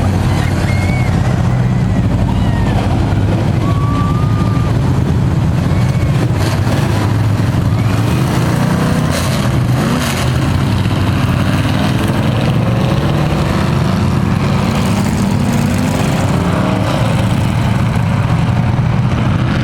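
Several dirt-track race truck engines running together at lap speed: a steady loud rumble, with engine pitch slowly rising in the second half as trucks come past.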